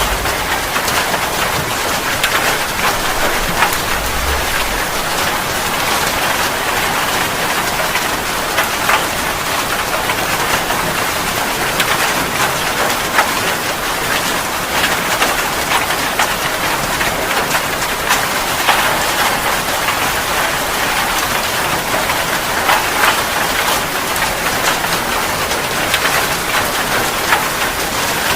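Steady rain, with many separate drops hitting a surface, and a short low rumble about four seconds in.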